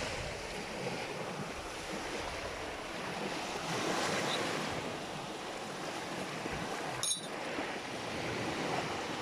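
Sea surf washing against the shore, swelling and easing, with wind buffeting the microphone. A single sharp click about seven seconds in.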